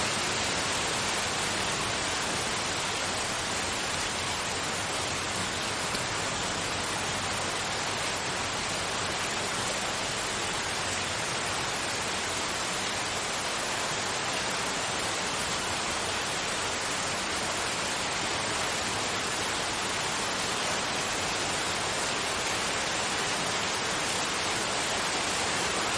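Continuous steady noise: an even, unchanging hiss spread from low to high pitch, of the rain-like kind sold as white noise for sleep and focus.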